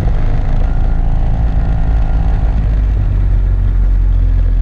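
Motor scooter engine running steadily with a deep, even rumble.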